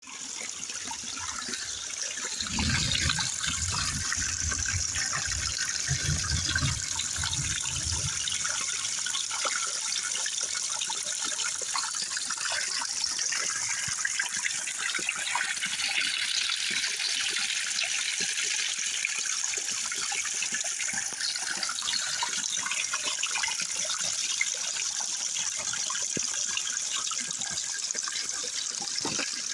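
Steady rain with water running and pouring. A low rumble is mixed in during the first several seconds.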